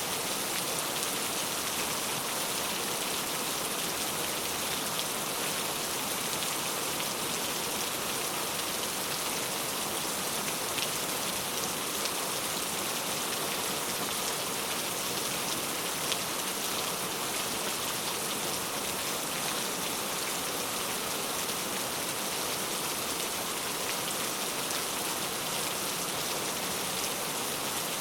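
Steady rain falling: an even hiss, strongest in the high end, with a few brief ticks standing out.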